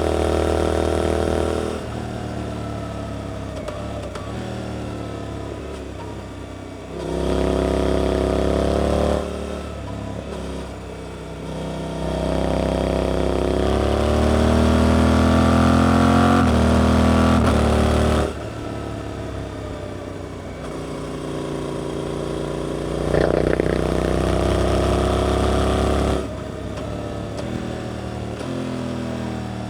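Suzuki GSX-8S parallel-twin engine through an Arrows aftermarket exhaust, ridden through a series of tight bends. It opens up four times, rising in pitch and getting louder with each throttle opening. Between these it drops back quieter and lower as the throttle closes.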